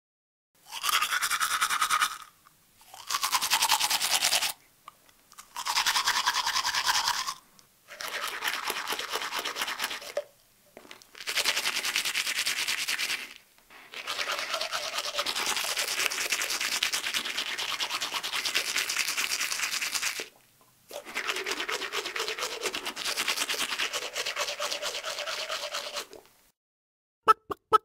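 A rapid, rattling buzz made with the mouth, repeated in seven separate bursts with short silences between; the last two bursts are the longest, about five to six seconds each.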